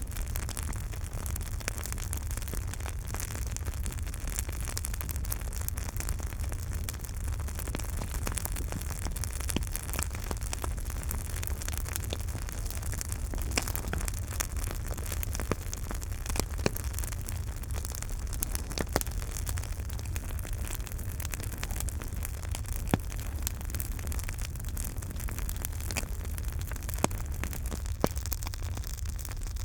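Campfire burning, a steady hiss and low rumble under irregular crackling, with occasional sharp pops.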